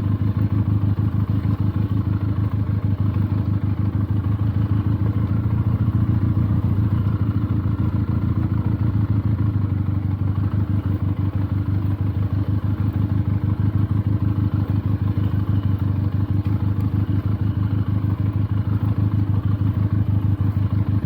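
Benelli TNT 300's 300 cc parallel-twin engine running steadily at low, even revs while the motorcycle is ridden slowly on a slippery track.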